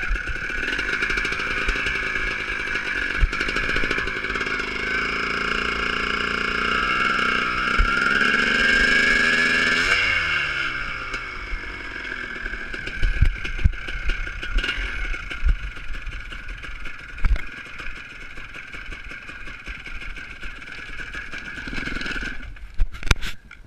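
Motocross motorcycle engines running: one climbs in pitch and then drops away steeply about ten seconds in, followed by scattered knocks and clatter. The sound cuts off abruptly near the end.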